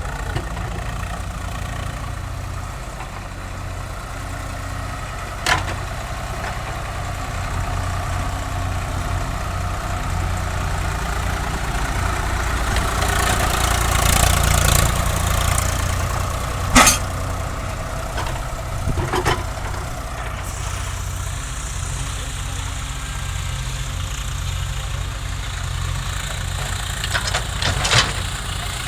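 Heavy diesel machine engine running steadily, growing louder in the middle, with a few short sharp knocks at scattered moments.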